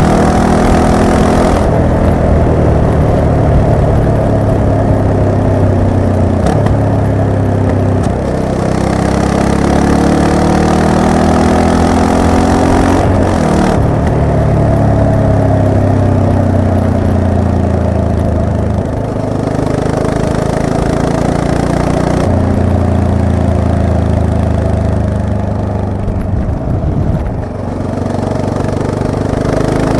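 Yamaha MT-03's 321 cc parallel-twin engine being ridden, its note rising and falling several times as the rider accelerates, shifts and eases off.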